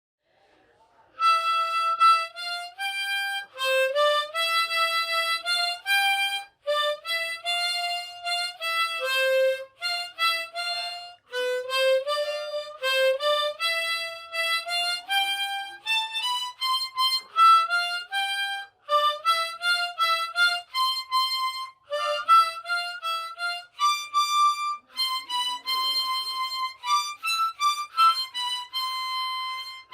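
Solo harmonica playing a slow, simple melody of separate held notes, starting about a second in.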